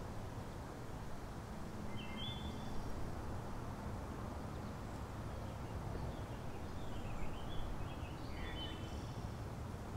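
A songbird calling over steady low outdoor background noise: a couple of short whistled notes about two seconds in, then a run of quick chirps that dip and rise in pitch in the second half.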